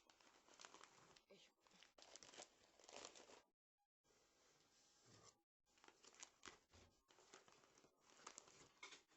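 A cat scratching and rustling at a cardboard box: quiet, irregular scratchy rasps and crinkles, cut by two brief dead-silent gaps around the middle.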